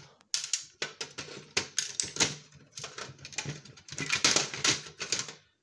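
Stubborn component being wrenched and pried off an electronics power board: repeated sharp clicks, cracks and scraping in several bursts, the loudest near the end.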